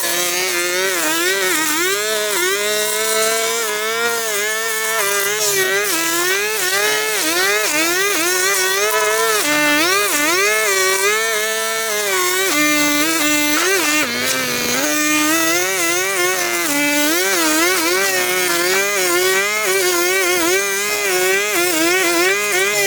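Small two-stroke engine of a gas grass trimmer running at high revs, its whining pitch rising and falling continuously as it works through overgrowth.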